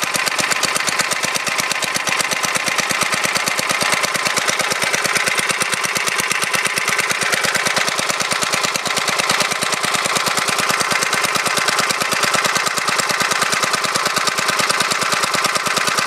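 Tecumseh H50 5 hp single-cylinder flathead engine running steadily just after a cold start, firing in an even, rapid beat.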